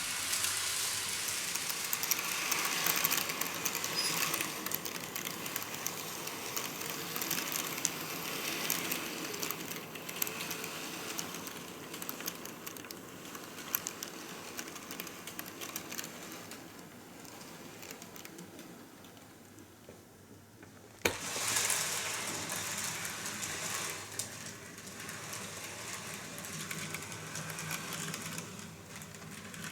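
N-gauge model train running on the layout track: a small motor's whirr with the light clicking of wheels on the rails. The sound fades away, then comes back louder after a sharp click about two-thirds of the way through.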